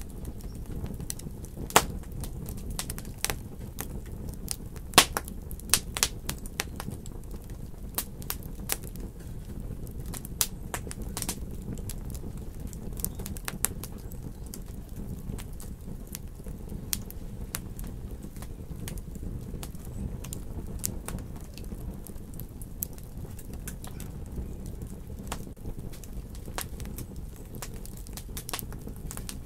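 Wood fire in a fireplace crackling, with scattered sharp pops over a steady low rumble; the pops are loudest and most frequent in the first third.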